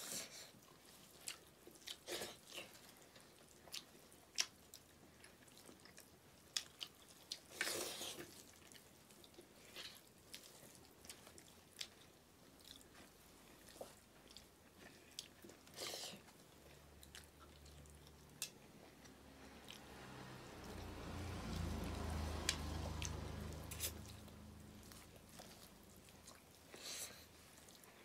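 Close-up eating sounds of people chewing rice and buffalo meat by hand: soft chewing and lip smacks with scattered small clicks of fingers and food against metal plates. A low hum swells and fades about two-thirds of the way through.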